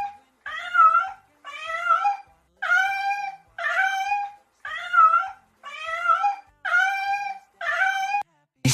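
An animal call played as a sound effect, repeated eight times at about one a second, each call rising and then holding its pitch.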